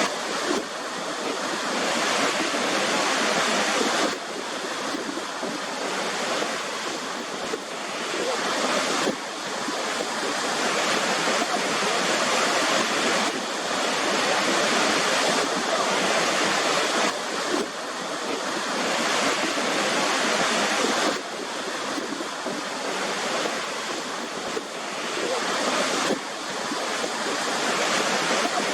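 Waterfall rushing: an even hiss of falling water, with sudden small steps in level every four or five seconds.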